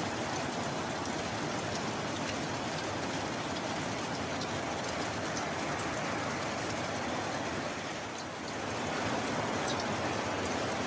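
Steady heavy rain, a dense hiss with scattered sharp drop ticks, easing briefly about eight seconds in and then coming back slightly stronger.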